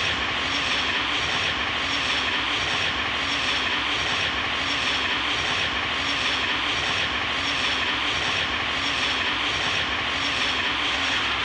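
0 Series Shinkansen train running at speed across a steel truss bridge: a steady rushing noise with a faint regular clatter about twice a second.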